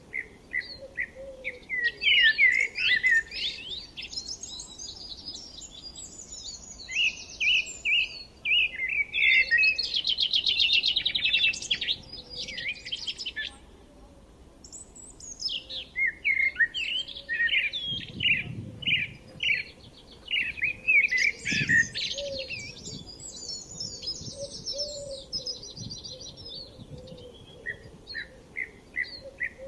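Songbirds chirping and singing, with several overlapping phrases of rapid high notes broken by short pauses.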